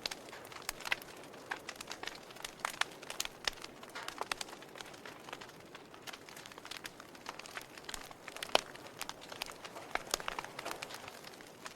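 Wood fire burning in a fireplace, crackling with irregular pops and snaps over a soft steady hiss; one louder pop comes about two-thirds of the way through.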